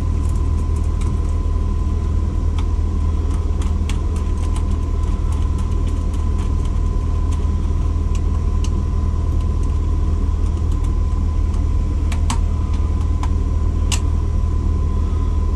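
Steady low background hum with a thin steady high tone over it, and scattered light clicks and ticks of screws being threaded down by hand with an Allen key.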